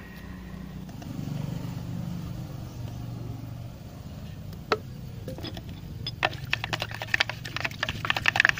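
A steady low motor hum, with a single sharp click a little before the middle. From about six seconds in come rapid, scratchy scraping strokes, like parts being scrubbed or brushed.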